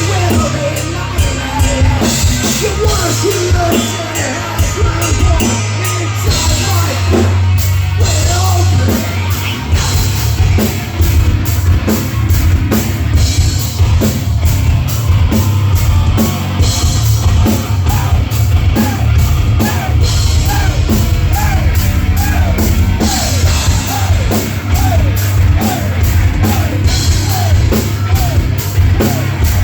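Rock band playing live, loud and heavy, with a drum kit keeping a steady beat under amplified instruments.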